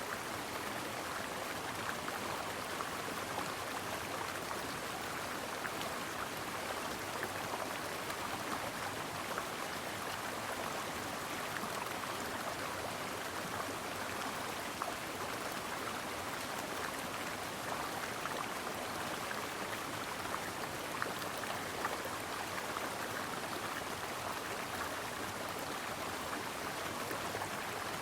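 A shallow stream running over rocks, a steady babble with small splashes and trickles throughout.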